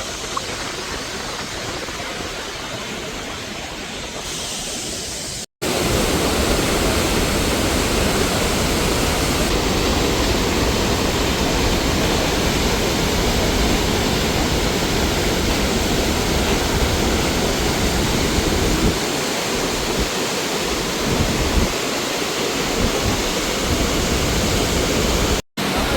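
Steady, loud roar of the Iguaçu waterfalls: a dense rush of falling water. The sound breaks off for an instant about five seconds in and again just before the end, and it is louder after the first break.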